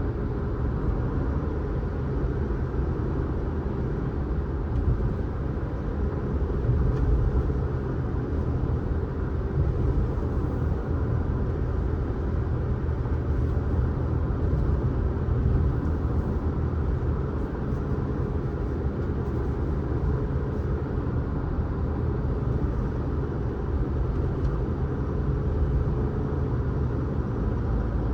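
A car driving along the road: a steady low rumble of tyres and engine with no sudden events.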